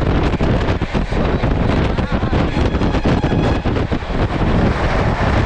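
Wind buffeting the microphone over the running noise of a moving express train, with a constant rattle of wheels and coach running gear, heard from an open coach doorway.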